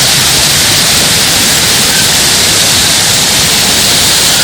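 Waterfall rushing over rock cascades: a loud, steady hiss of falling water.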